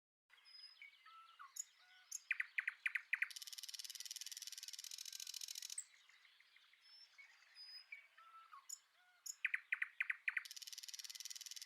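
Common nightingale singing: soft, varied phrases, then four loud repeated notes followed by a long, fast, dry trill. The same sequence comes twice.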